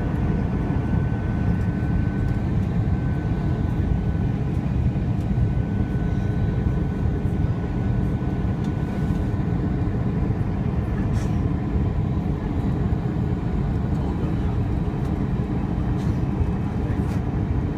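Steady cabin rumble of an Airbus A320 airliner: engine and airflow noise, even and unchanging, with a faint high steady tone over it.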